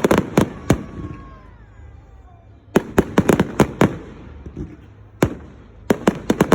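Fireworks exploding in rapid volleys of sharp bangs: one burst right at the start, another about three seconds in, and a third near the end, with quieter gaps between.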